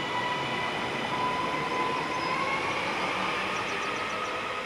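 Northern electric multiple unit train running past along the platform: wheel and running noise under a steady electric motor whine that rises in pitch over the second half as the train gathers speed.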